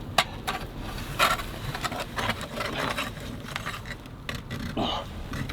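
Hand ice auger cranked through thick ice: the blades scrape and crunch in an uneven run of short strokes, the sharpest about a quarter second and just over a second in.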